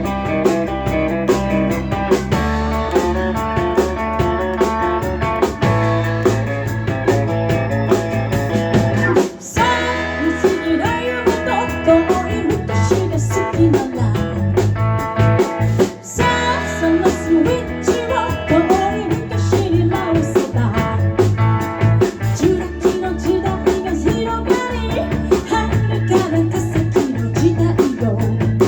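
Live band playing a rock/blues number on guitar, bass and drums, with a voice singing over it from about ten seconds in. The band stops dead for a split second twice.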